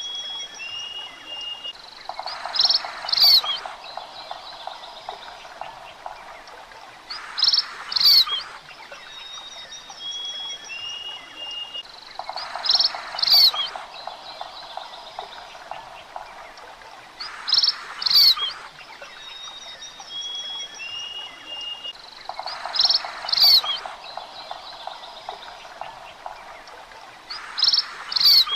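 Birds chirping, with loud bursts of rising chirps about every five seconds, some joined by a rapid pulsing trill. Thin steady whistled notes and a faint hiss run between the bursts, and the whole pattern repeats in a loop.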